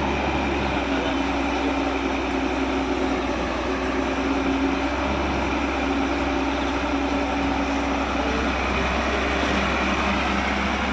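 Heavy diesel engine running steadily, with a held hum that fades out after about eight seconds.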